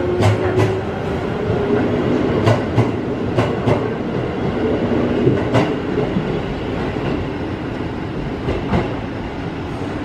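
JR conventional-line train running through the station with a steady rumble, its wheels clicking over rail joints in pairs of sharp clicks, most of them in the first six seconds.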